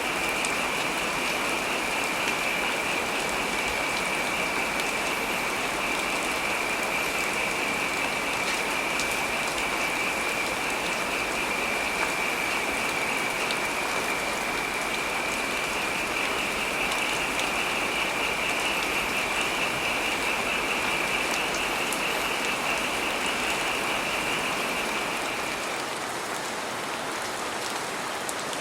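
Steady heavy rain falling, a dense even patter. Over it runs a high, steady buzzing sound that stops a few seconds before the end.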